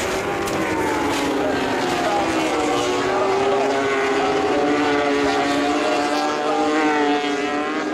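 MotoGP racing motorcycle engine running at high revs, its pitch sliding slowly down over the first few seconds, then holding and rising again near the end.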